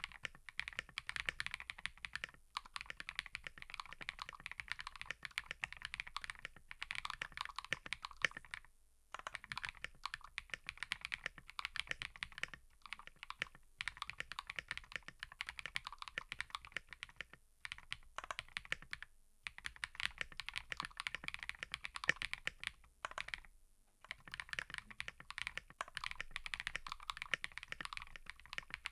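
Fast, continuous typing on a mechanical keyboard, a dense run of key clicks that stops for brief pauses three times.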